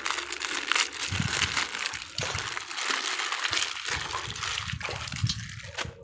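Plastic toy packaging crinkling and rustling steadily, with small crackles and a few soft knocks, as toy animals are unwrapped. It stops near the end.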